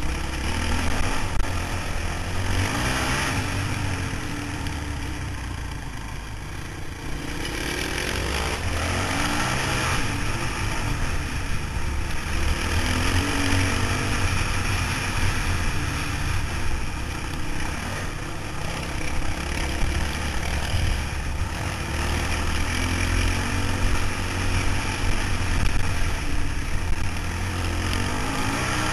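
Motorcycle engine running on the move, steady apart from a brief easing off about six seconds in.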